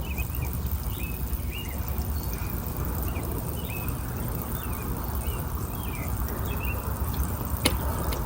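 American robin chirping, one short note repeated once or twice a second, over a steady low rumble. A single sharp click near the end.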